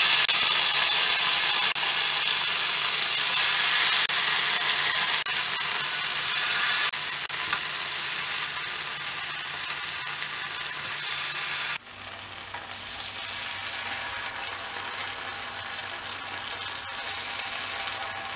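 Marinated paneer pieces sizzling in oil on a hot ridged grill pan as more pieces are laid in with tongs. The sizzle is loud at first and fades slowly, then drops abruptly to a softer sizzle about twelve seconds in.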